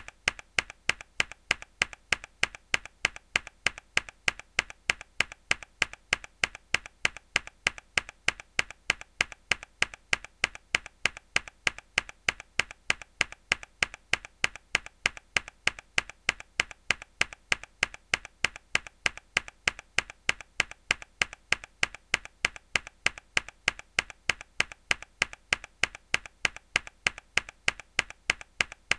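A single mechanical keyboard key pressed hard over and over in an even rhythm, about three sharp clicks a second, each followed by a softer click.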